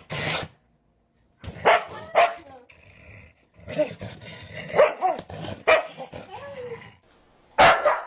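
A dog barking, a series of short separate barks with pauses between them, the last one loud near the end.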